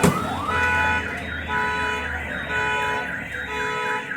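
Car alarm sounding, cycling through rising whoops and alternating high and low steady tones, with a sharp crack right at the start.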